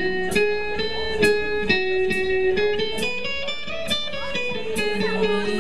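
Electric guitar picking single ringing notes in a melody, about two notes a second at an even pace, played live.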